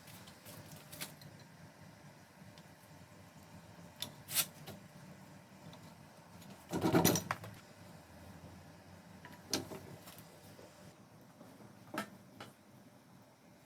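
A few scattered clicks and knocks over a faint low hum, the loudest a short cluster of knocks about seven seconds in.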